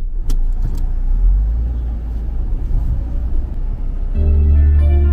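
Car running with a steady low engine and road rumble. Background music comes in about four seconds in.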